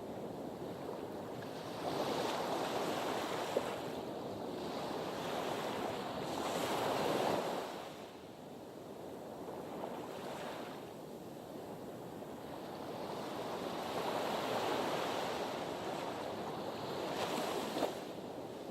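Sea waves washing in, the surf noise swelling and easing in two slow surges, with a brief sharp splash a few seconds in and another near the end.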